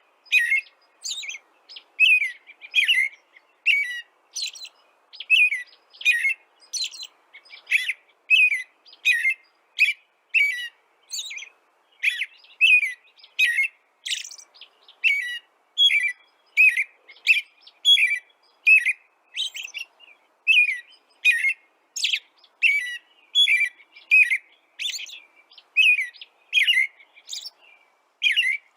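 Songbird chirping over and over: short, high, clean chirps, nearly two a second, each sliding down in pitch, in a steady unbroken run.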